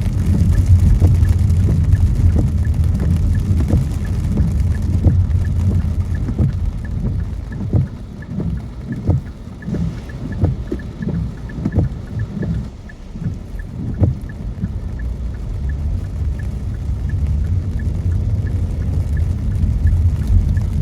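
Car driving in the rain, heard from inside the cabin: a low road and tyre rumble that dies down in the middle and builds again near the end, with raindrops tapping on the glass and roof.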